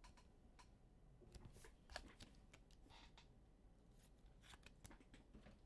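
Near silence with faint, scattered small clicks and rustles, a few a second at most, of something being handled at the desk.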